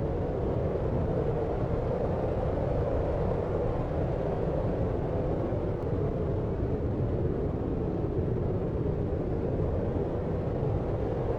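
Steady deep noise for sleep: an even, smooth rush with most of its weight in the low end and little treble, unchanging.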